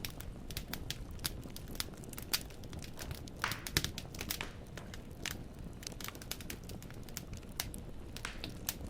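Firewood burning in a fireplace, crackling with many irregular sharp pops over a low, steady rumble of the flames. A cluster of louder pops comes about three and a half seconds in.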